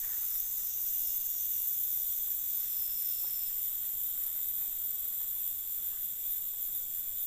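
Steady high-pitched drone of insects, several shrill tones held without a break.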